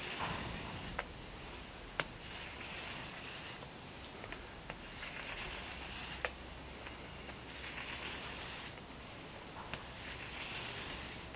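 Foam roller working wet varnish over a mahogany transom: repeated rolling strokes, each a soft sticky hiss, coming about every two to three seconds, with a few sharp clicks in between.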